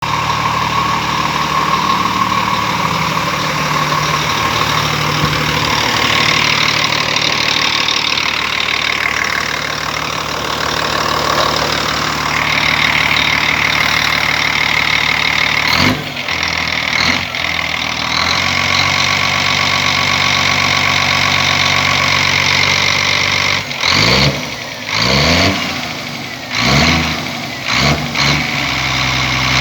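Scania Euro 5 diesel engine idling steadily, then blipped several times in quick succession in the last few seconds, its pitch rising and falling with each rev.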